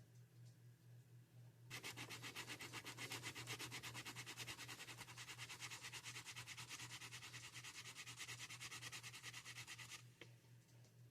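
Rapid, even back-and-forth scraping strokes of hand-sanding a plastic action-figure part flat, starting about two seconds in and stopping abruptly near the end. A steady low hum lies underneath.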